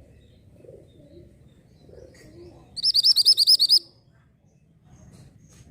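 Orange mantenan songbird giving one rapid trill of about ten quick, evenly spaced high notes that lasts about a second, starting a little under three seconds in.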